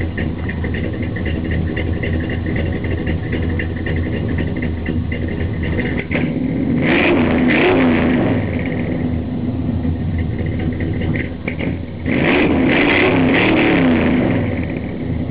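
Chevy 350 Vortec V8 with Flowmaster dual exhaust idling, revved in two spells of quick throttle blips, about seven and about twelve seconds in.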